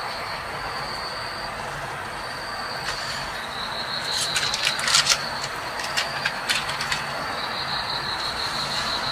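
High-pitched insect trill, pulsing and steady, stopping and starting a few times over a constant hiss. A cluster of sharp clicks and taps comes in the middle.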